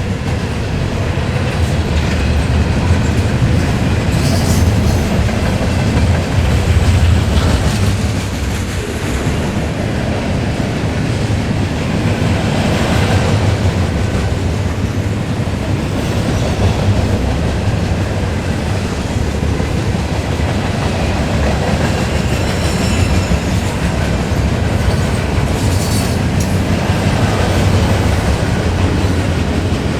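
Freight train of gondola cars rolling past: a steady rumble of steel wheels with clickety-clack over the rail joints, and brief high squeals about four seconds in and near the end.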